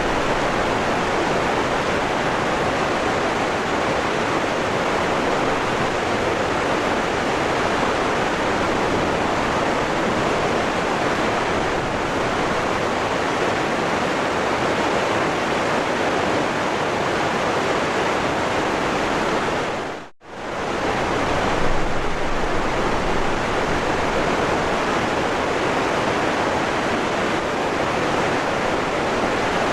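Waterfall rushing steadily. About twenty seconds in, the sound drops out for a moment, dipping briefly and then returning.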